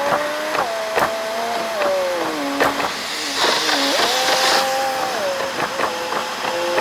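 Car engine and road noise heard from inside the car, played back sped up: a high whirring drone whose pitch rises and drops in steps as the car speeds up and slows, with scattered clicks and a short hiss about halfway through.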